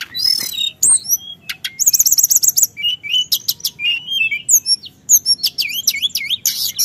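Teledekan gunung (Sunda bush warbler) singing a continuous rapid song of varied chirps, whistled sweeps and short trills, with a fast run of about ten evenly repeated notes about two seconds in.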